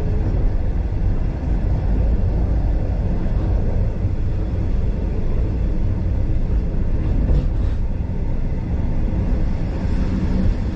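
Heritage steam-hauled passenger train rolling along the track: a steady, loud rumble of wheels on rail, with a pair of faint clicks about seven seconds in.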